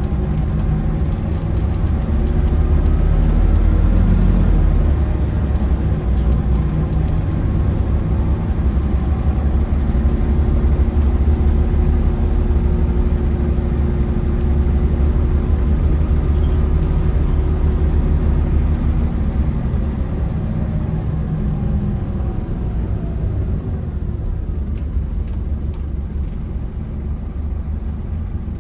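Scania DC9 five-cylinder diesel and ZF Ecomat automatic transmission of a Scania L94UB city bus heard from inside the cabin: a deep engine rumble with a whirring drivetrain tone that climbs slowly as the bus pulls along, then slides down in pitch as it eases off and slows near the end.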